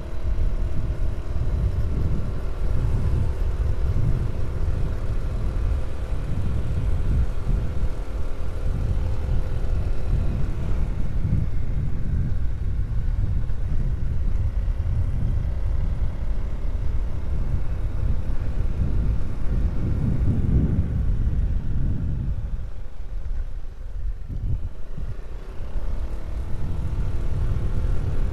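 Low, uneven rumble of wind buffeting the microphone, with a faint droning hum that fades out about ten seconds in.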